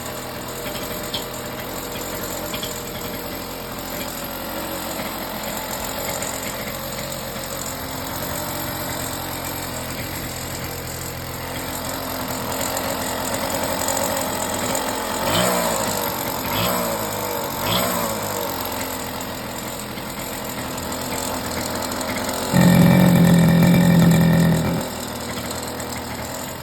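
Petrol two-stroke engine of a large-scale RC buggy, running through a home-made exhaust silencer, idling steadily. It is blipped three times in quick succession about halfway through. Near the end it jumps to a louder, steady, higher speed for about two seconds, then drops back to idle.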